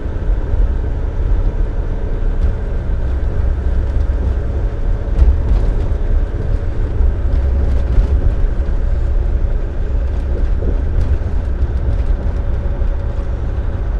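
Dump truck driving at highway speed, heard from inside the cab: a steady low engine drone and road noise, with a faint steady tone above it.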